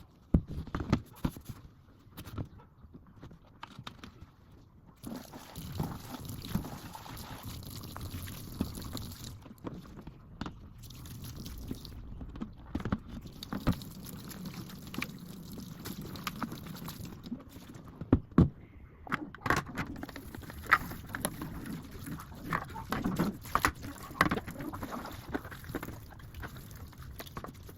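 Water running steadily while plastic and glass refrigerator parts are scrubbed and handled, with frequent knocks and clatters as pieces are set down; a few sharper knocks stand out near the middle and in the second half.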